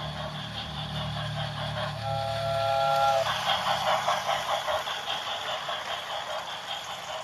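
Steam locomotive whistle sounding a chord of several tones for about a second, followed by rapid, even exhaust chuffing as the engine works.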